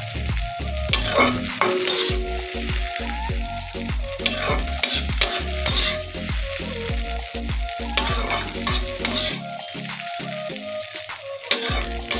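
Scrambled eggs sizzling as they fry in oil in a kadai, stirred and scraped around the pan with many short strokes.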